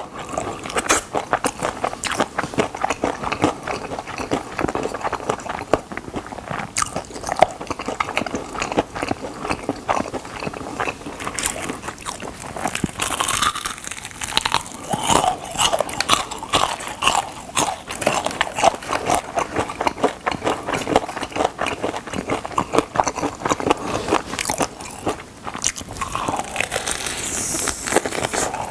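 Close-up crunching bites and chewing of crispy fried chicken drumsticks, a dense run of crisp crackles and crunches.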